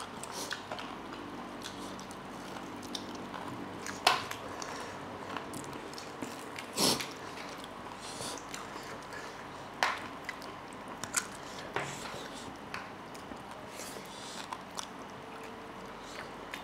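Close-miked chewing and mouth sounds of people eating pork curry and rice with their hands: soft smacking and wet chewing with many small clicks, a few sharper ones about four and seven seconds in.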